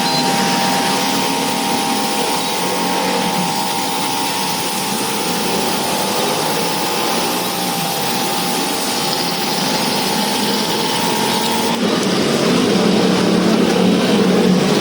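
Electric pressure washer running steadily with a constant whine. About 12 seconds in the whine stops and the noise turns lower and slightly louder.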